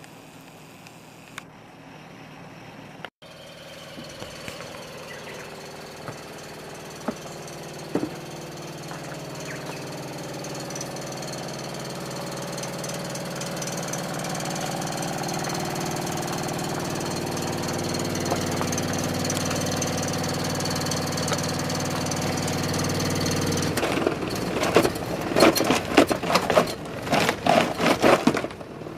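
Sharp air conditioner running with a steady, layered hum that slowly grows louder. About four-fifths of the way in it breaks into a loud, irregular rattling vibration, an abnormal noise its owner puts down to a strange resonance from the way the unit is placed.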